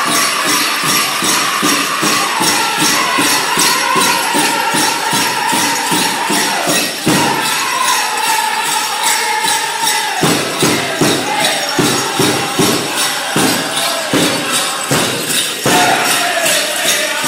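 A powwow drum group plays a steady beat on a big drum while high voices sing a song line that steps downward in pitch. The drumbeats stand out harder and more separated in the second half. Over it runs a jingling of bells, as worn by grass dancers.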